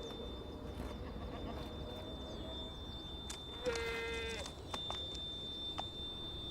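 An Alpine ibex bleating once, a short call about four seconds in.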